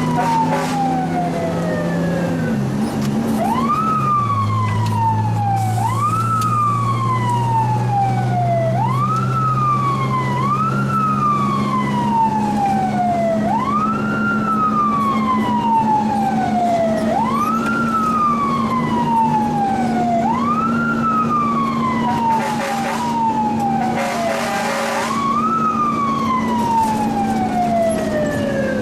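Fire truck siren heard from inside the cab, spun up again and again: each time its pitch rises quickly, then winds down slowly over about three seconds. This is the typical pattern of a mechanical siren being fed in bursts. Underneath is the steady drone of the truck's engine, with two short bursts of noise near the end.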